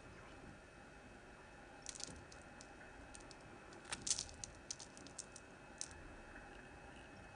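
Blade cutting into a bar of hard, dry Palmolive soap with short, crisp crunching cracks: a few about two seconds in, then a quick run of them from about four to six seconds in, the loudest near four seconds.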